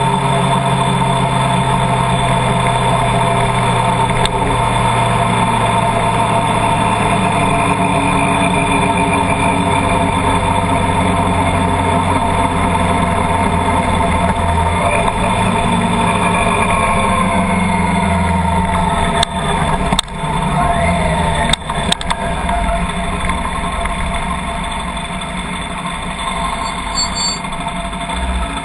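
Vehicle engine running steadily, with a few sharp clicks about twenty seconds in, after which it is a little quieter.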